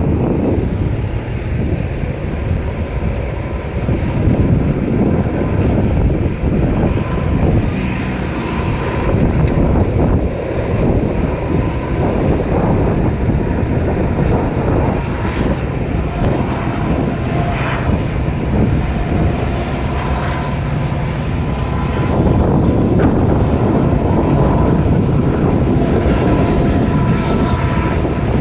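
Freight train passing: a loud, steady rumble of the cars rolling over the rails, growing slightly louder about two-thirds of the way through.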